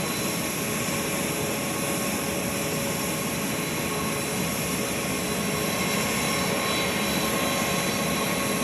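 Large jet aircraft's engines running steadily: an even rushing noise with a few high, steady whining tones over it.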